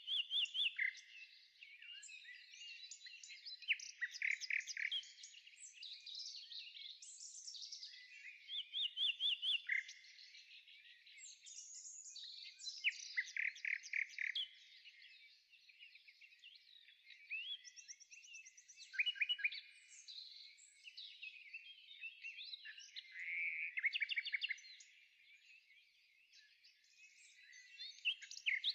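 Several birds singing and chirping together, with short trilled phrases standing out every few seconds.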